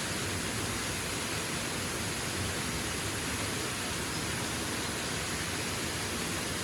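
Waterfall's steady rushing roar, an even unbroken wash of water noise.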